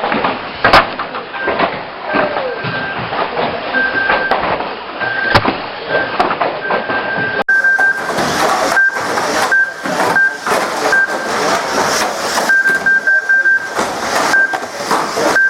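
Radio-controlled banger race: model cars knocking and clattering against each other over background voices, with a short high electronic beep repeating every second or so. Sharp knocks stand out just under a second in and again about five seconds in.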